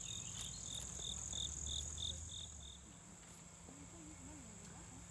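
Insects calling: a steady high-pitched buzz, with a second chirp repeated about three times a second that stops a little past halfway through.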